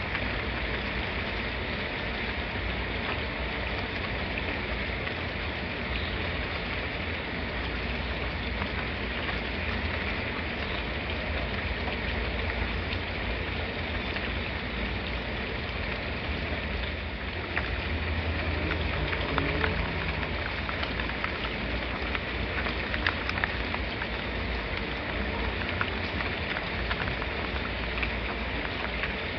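Steady rainfall, an even hiss of rain with drops spattering on a surface. A little past halfway it grows slightly louder, with more distinct drop taps.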